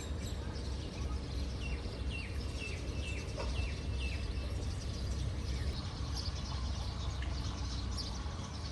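Outdoor ambience with a small bird calling: a run of about half a dozen short, quick downward chirps between about two and four seconds in, over a steady low rumble.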